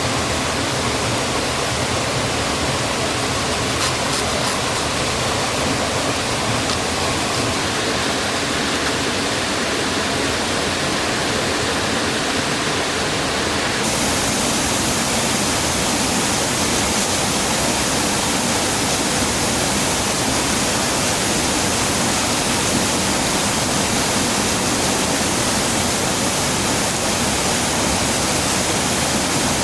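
Steady rush of a mountain waterfall or fast stream. About fourteen seconds in, it turns brighter and more hissing.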